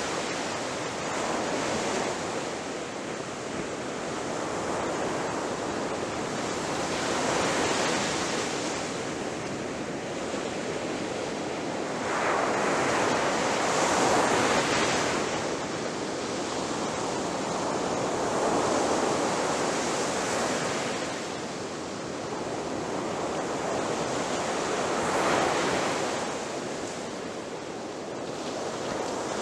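Ocean waves breaking on a shore, a continuous wash of surf that swells and recedes every several seconds.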